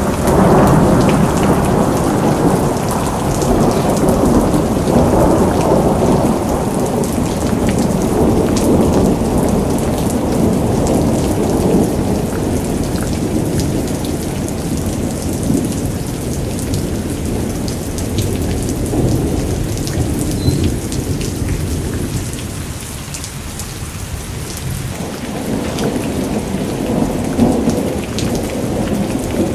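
Rain falling steadily with long rolling thunder. The deep rumble swells and eases, dies down about three-quarters of the way through, then builds again near the end, over a fine patter of drops.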